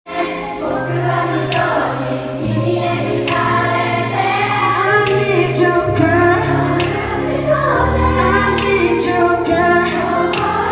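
A song sung by many voices together, choir-like, over backing music with a steady bass line.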